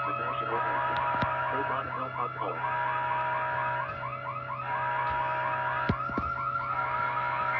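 Electronic alarm siren with a fast warble, several quick rising-and-falling sweeps a second, layered with a steady alarm tone that cuts in and out about every second and a half, over a low hum.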